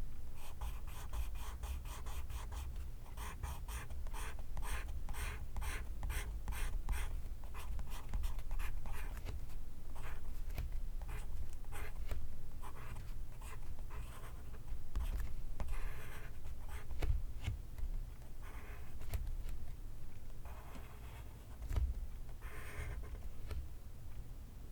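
Pencil writing on paper: a quick run of short scratchy strokes, thinning out after about ten seconds into separate longer strokes, over a low steady rumble.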